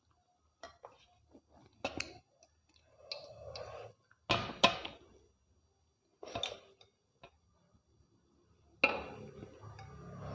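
Eating sounds over a meal of mutton curry and rice: scattered sharp clicks and clinks of dishes, the loudest pair about four and a half seconds in, with soft chewing noises between. A steady low rumble sets in near the end.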